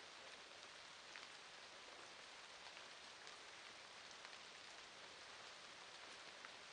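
Faint, steady rain falling, an even patter with scattered individual drop ticks.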